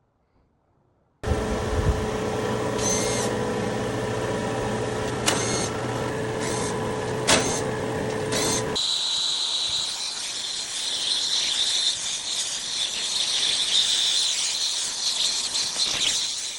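A machine runs with a steady whine and a few sharp clicks for about seven seconds, then cuts off suddenly. A steady high hiss follows until the end.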